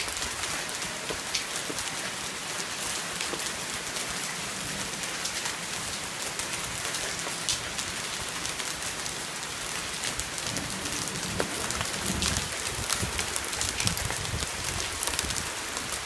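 Heavy rain pouring down on leafy trees and a wooden deck: a steady dense hiss full of fine drop ticks, with some low rumbling in the second half.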